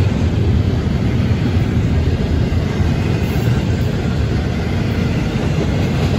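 Florida East Coast Railway intermodal freight train rolling past, a steady low rumble of the cars on the rails.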